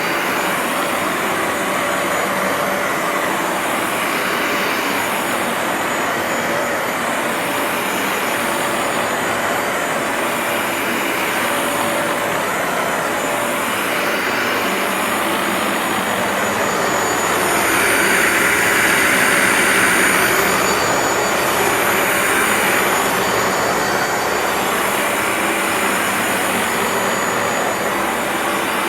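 Bissell ProHeat 2X upright carpet washer running while it cleans a rug: a steady loud motor drone with a thin high whine on top, swelling louder for a few seconds a little past the middle.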